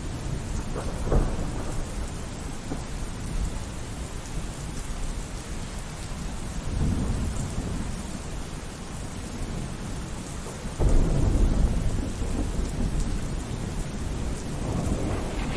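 Steady rain falling through a thunderstorm, with thunder rumbling several times; a sudden louder clap about two-thirds of the way through.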